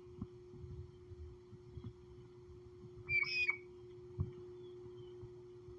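A bird gives one short call of about half a second, a little past halfway through. There are faint low knocks and a faint steady hum underneath.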